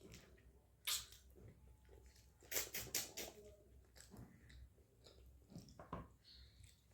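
A person chewing and eating food close to the microphone, with sharp mouth clicks about a second in, a quick cluster of them around the middle, and a few more near the end.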